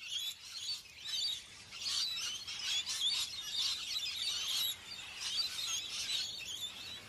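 A flock of rainbow lorikeets calling, many shrill chattering calls overlapping with no break.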